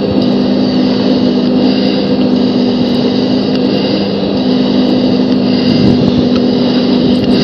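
Cockpit noise of a Canadair CT-114 Tutor jet in flight: the steady drone of its single turbojet engine and the airflow, a low hum under a high whine, unbroken throughout.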